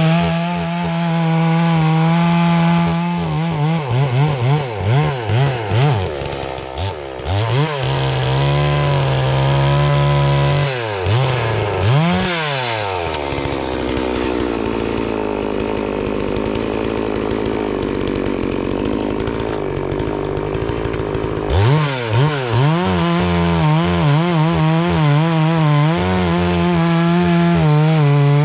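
A 72cc two-stroke FarmMac F380W chainsaw running at high revs, cutting through a poplar log. Its pitch dips and recovers repeatedly as the chain loads in the cut, then runs lower and rougher for several seconds. About three quarters of the way through it climbs back to a high, steady pitch.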